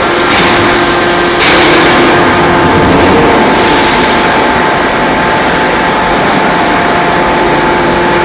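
Steady, loud machinery noise from a forging hammer's drive, a constant mechanical hiss with a steady hum and no distinct hammer blows.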